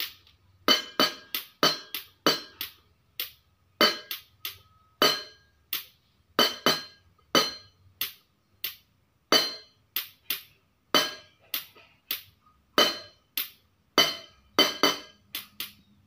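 A hard object struck again and again: dozens of sharp clinks in an irregular rhythm, some in quick pairs and triples, each with a short bright ring.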